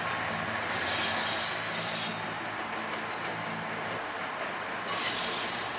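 Trains moving on the tracks of a station: a steady low rumble. High-pitched wheel squeal comes in about a second in and again near the end.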